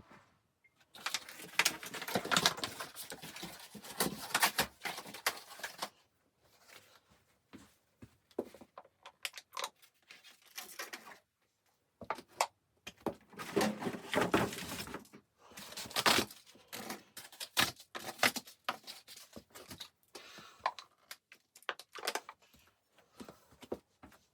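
Irregular crackling and rustling in clusters of a second or two, with short quiet gaps between, like material being handled or torn.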